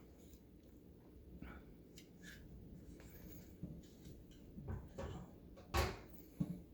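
Faint handling noises from oven control-panel parts being worked on by hand: scattered light clicks and taps, with two sharper clicks near the end.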